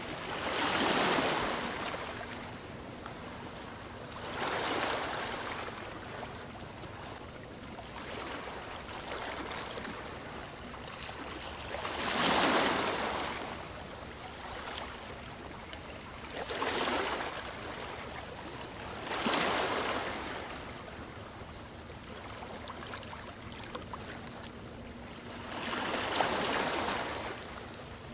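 Sea waves washing onto a shore: a continuous wash of water with about six surges, each swelling and falling away over a second or two at uneven intervals.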